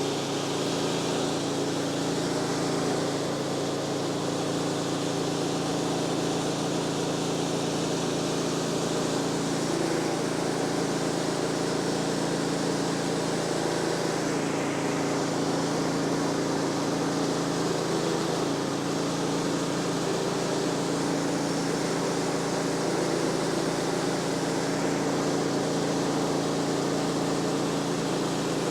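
Woodland Mills HM126 band sawmill running steadily under load as its blade cuts through a large post oak log: a constant engine hum under an even hiss.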